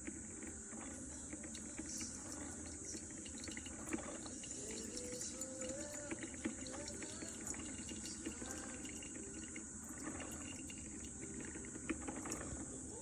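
Portable mini coffee machine dispensing: a faint trickle of liquid over a steady hiss, with a few light clicks.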